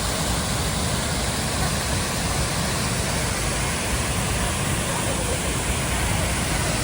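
Spearfish Falls, a waterfall in full flow, rushing steadily with a loud, unbroken noise of falling water and spray.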